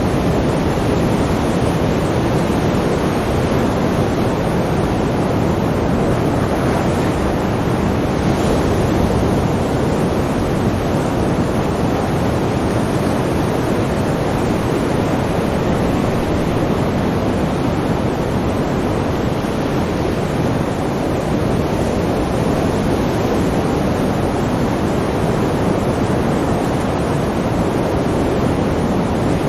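Sea surf: a steady, continuous roar of waves with no separate breakers standing out.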